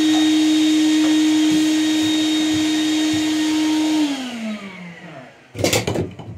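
A vacuum cleaner motor runs with a steady high hum, is switched off about four seconds in and winds down, falling in pitch. About a second later there is a loud clatter, then a smaller knock near the end.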